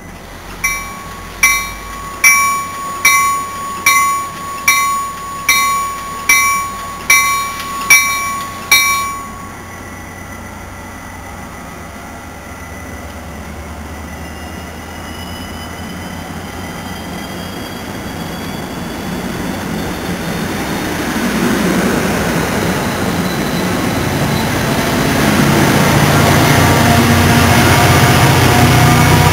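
NJ Transit commuter train's bell rings eleven times, evenly and a little under a second apart, as it prepares to depart. The train then pulls out and gathers speed, with a faint rising whine and a rumble of cars and wheels that grows steadily louder as the coaches pass.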